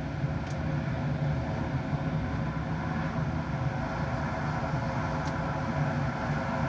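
Jet airliner engines running steadily: a low rumble with a layered whine of steady tones.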